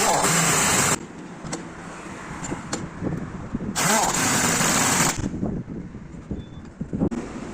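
Two loud bursts of hissing noise, each a second or so long, starting and stopping sharply, over a low background rumble.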